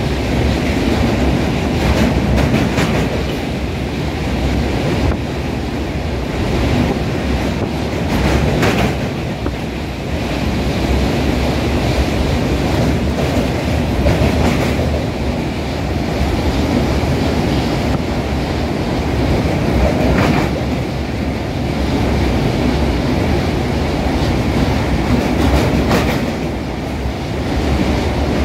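Train running over a steel truss railway bridge, heard from inside a coach at an open window: a loud, steady rumble of wheels on rails with a few sharp clacks.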